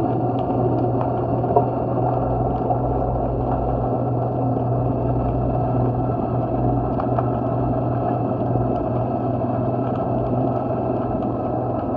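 A steady low mechanical drone over a wash of noise, with faint scattered clicks and one sharper tick about one and a half seconds in.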